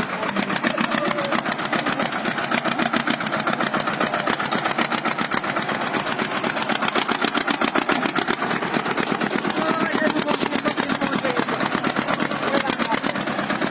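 Tractor engine running steadily, with a fast, even pulsing beat.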